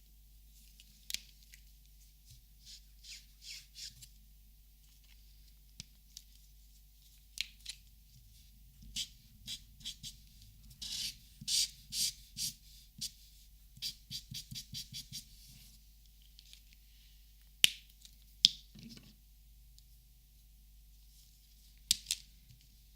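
Marker drawing on paper: a run of short scratchy strokes, coming thick and fast in the middle, with a few sharp clicks in the second half.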